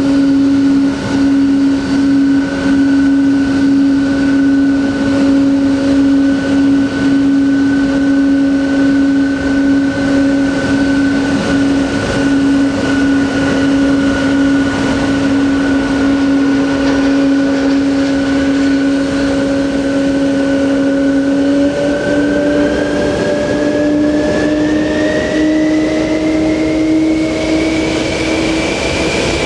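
Boeing 777-200's jet engines whining steadily, then rising in pitch over the last several seconds as the engines spool up.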